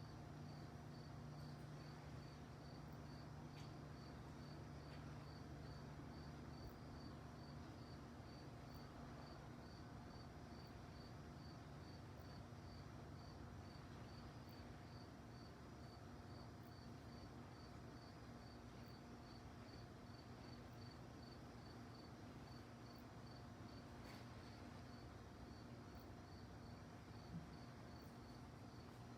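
A cricket chirping evenly, about one and a half short high chirps a second, over a faint steady low rumble.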